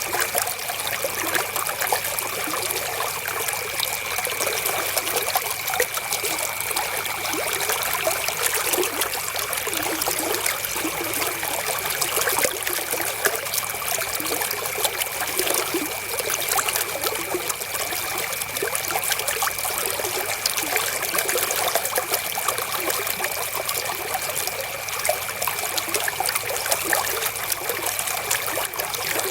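River water flowing and trickling, a steady rush full of small splashes. A thin, steady high tone sits underneath.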